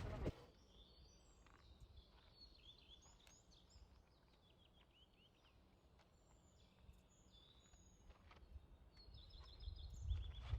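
Faint birdsong: small birds giving short, high, quick chirps in clusters over quiet outdoor ambience. A louder low noise breaks off just after the start, and a low rumble comes up near the end.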